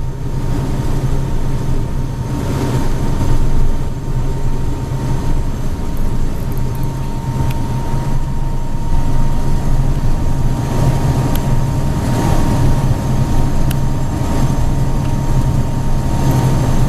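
Steady cockpit noise of a Cessna business jet in flight: a constant low drone from the engines and airflow, with a thin steady high tone and a rushing hiss over it.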